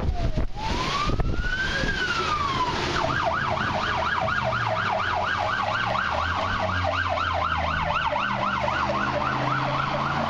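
Emergency vehicle siren: one slow wail rising and falling, then a fast yelp repeating about four times a second, over the low hum of a vehicle engine.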